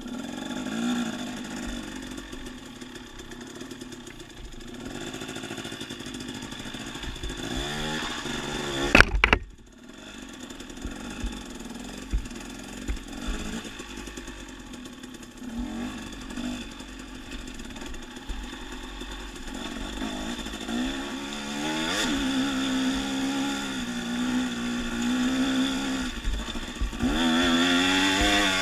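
Dirt bike engine running, its pitch rising and falling as the throttle is worked. There is one sharp knock about nine seconds in, and the engine gets louder near the end.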